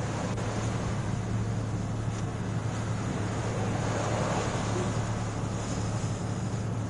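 Steady low hum of an idling vehicle under an even wash of noise, unchanging throughout.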